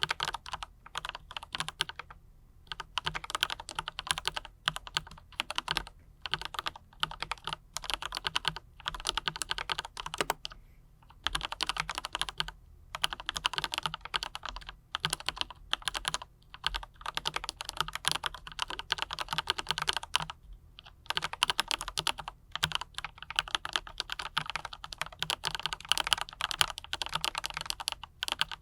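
Continuous typing on a mechanical keyboard with Autumn Rain switches and PBT double-shot keycaps: a fast, dense clatter of keystrokes, with a few short pauses.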